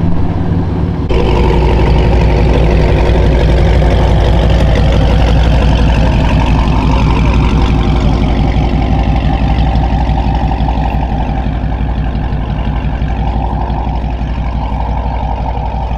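A car engine idling loudly with a steady, pulsing exhaust note, getting abruptly louder about a second in.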